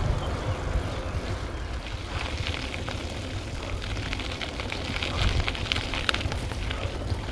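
Wind rumbling over a microphone mounted on a moving bicycle, with fine crackling ticks from the ride joining in about two seconds in.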